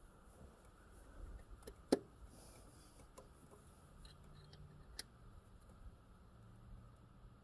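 Faint clicks and light knocks as spark plug wires are fitted back onto a Ford V8. There is one sharp click about two seconds in and another about five seconds in.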